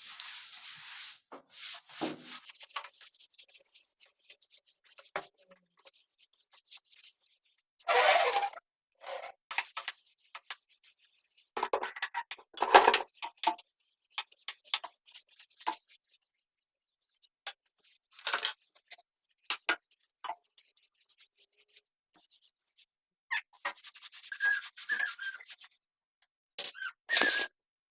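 Intermittent rubbing and scrubbing strokes of cleaning, in short separate bursts with pauses between, with a few faint squeaks near the end.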